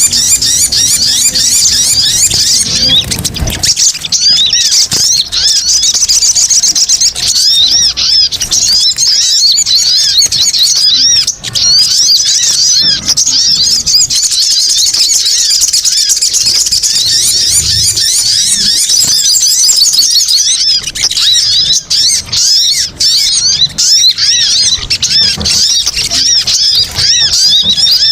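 Sogon (sogok ontong) birds calling in a dense, noisy chorus of rapid, high-pitched chirps, many calls overlapping without a break, as in a bird-trapping lure recording. A low rumble sits under the chirps for the first few seconds.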